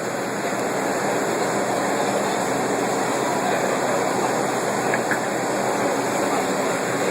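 R62A subway train running along the track: a steady, loud rush of wheel and rail noise. A brief faint squeal comes about five seconds in.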